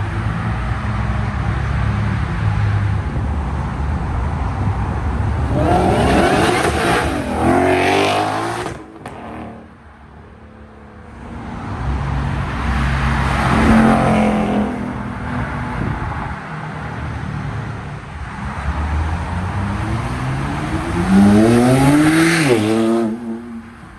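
Car engines revving and accelerating past, rising sharply in pitch about six seconds in and again near the end, each time dropping away quickly.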